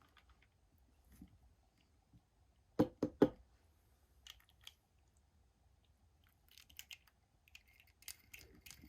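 Small plastic toys and packaging being handled: three quick, sharp clicks close together about three seconds in, then light scattered clicking and rustling.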